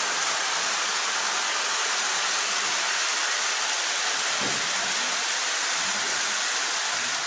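Polar Express toy train set running on its track: a steady, even rushing noise with no distinct clicks standing out.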